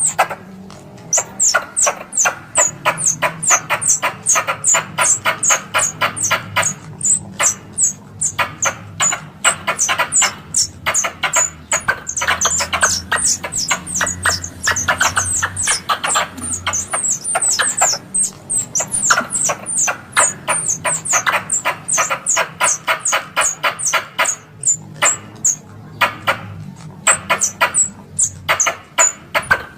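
Squirrel lure call: a rapid chattering series of sharp chips, several a second, coming in bouts with short pauses. It is the plantain squirrel's call, played to draw squirrels in for hunting.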